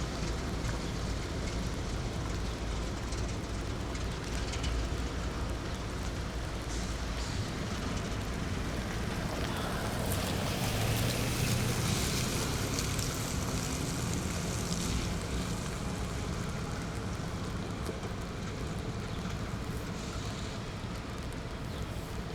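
A train rolling past: a steady low rumble with a hiss that swells in the middle and eases toward the end.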